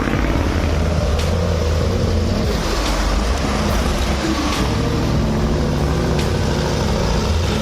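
Off-road vehicle engine running with a steady low rumble, its note shifting a couple of times.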